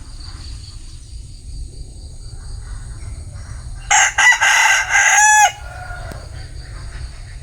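Bantam rooster (Vietnamese gà tre) crowing once, about four seconds in: a loud cock-a-doodle-doo of about a second and a half, short opening notes and then a held note that drops off at the end. A steady low rumble sits under it.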